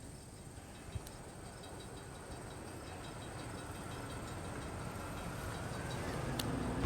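A train approaching, its running noise growing steadily louder.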